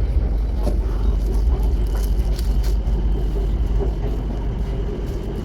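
Steady low rumble of a moving vehicle, with a faint steady high whine joining about two seconds in.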